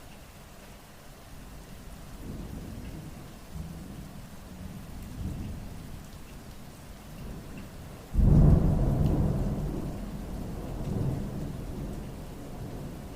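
Thunder during a rainstorm: low rumbling builds over the first seconds, then a sudden loud clap about eight seconds in rolls away slowly, over steady rain.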